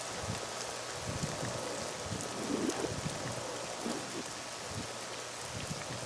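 Steady rain falling, with irregular low bumps mixed in.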